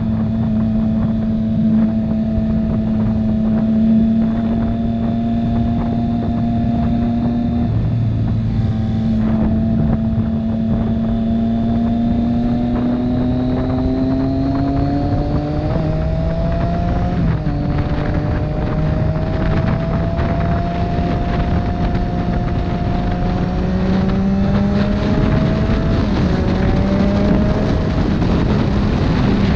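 Motorcycle engine running under way with wind rush on the microphone: the pitch holds, dips about eight seconds in, climbs steadily as the bike accelerates, steps through two quick gear changes at about sixteen and seventeen seconds, then settles into a steady cruise.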